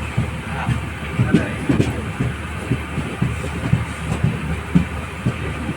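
LHB passenger coach running on the track: a steady rumble with irregular low thuds from the wheels, several a second.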